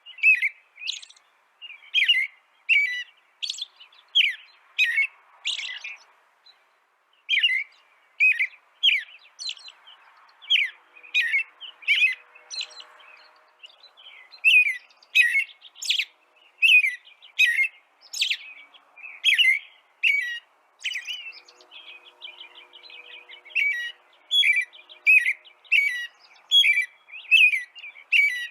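A small songbird chirping over and over, short sharp chirps that drop quickly in pitch, about one or two a second, with a couple of short pauses.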